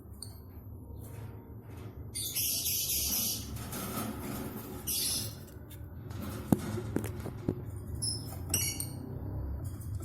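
Lovebird chicks chirping in short, high, quick calls near the end, with bursts of rustling and a few sharp clicks earlier, as the nest is handled.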